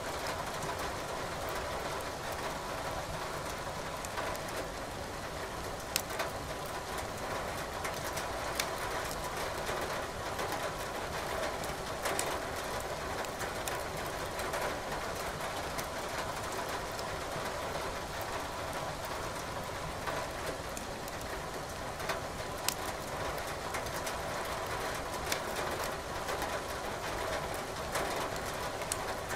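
Steady rain with a fireplace burning, the firewood giving off sharp crackles and pops every few seconds.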